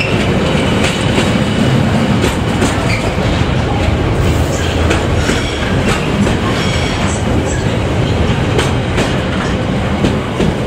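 A train running close by, loud and steady, its wheels clattering over rail joints in irregular clicks, with a faint thin wheel squeal.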